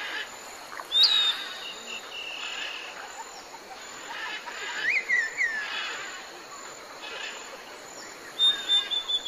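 Wild birds calling: a sharp call that rises and drops back about a second in, a few quick chirps near the middle, and a long high whistle near the end.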